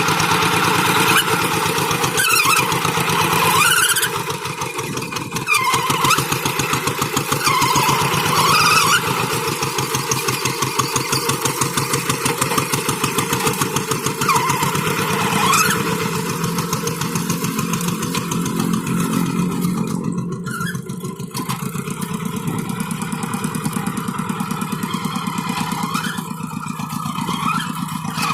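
Tractor engine running steadily under load while pulling a moldboard plough. A higher whine dips and rises several times in the first half.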